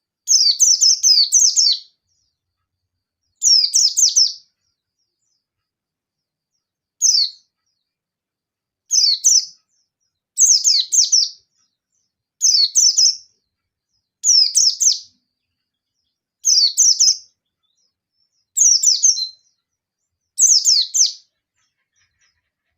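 Yellow-breasted white-eye (pleci) singing: short, fast, high-pitched twittering phrases, about eleven of them coming roughly every two seconds with silence between. It is the wild-type 'ngalas' challenge song, used to call up rival white-eyes and make them answer.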